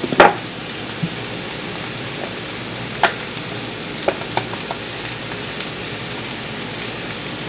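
Diced sausage, potatoes and bell peppers frying in a pan, a steady sizzle, with a few light clicks and taps.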